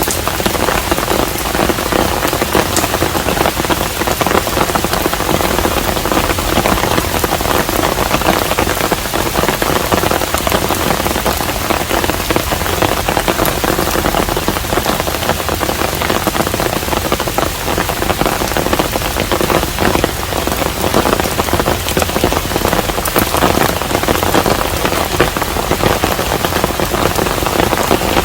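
Steady, even rain falling on a hanok, a traditional Korean house, a dense patter with many individual drops heard through it.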